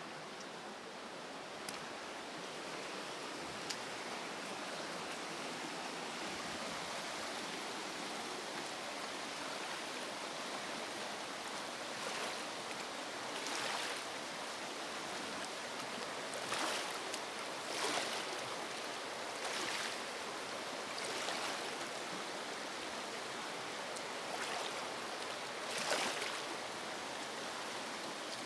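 River water flowing, a steady rushing noise. About halfway through, short louder swishes come every second or two.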